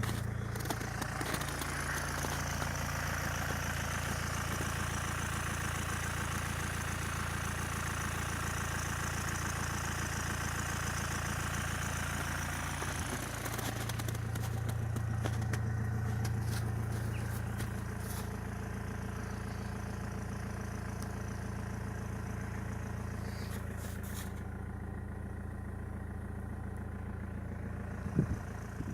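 Opel Y22DTR 2.2-litre four-cylinder turbodiesel running at a steady idle, its note swelling for a few seconds midway. A single sharp knock comes near the end.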